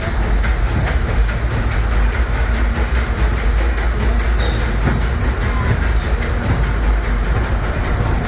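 Narrow-gauge passenger coach of the Disneyland Railroad rolling along the track, heard from on board: a steady low rumble with faint clicking of the wheels over the rails.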